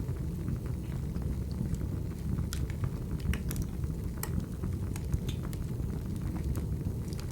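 Wood fire crackling: a steady low rumble of flame with scattered sharp pops and snaps from the burning logs.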